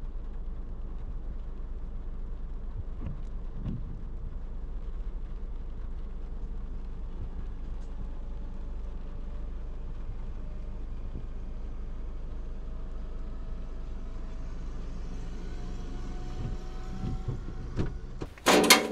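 Car engine running steadily, heard from inside the cabin as a low rumble. Near the end it rises in pitch as the car pulls away, and a loud brief clatter comes just before the end.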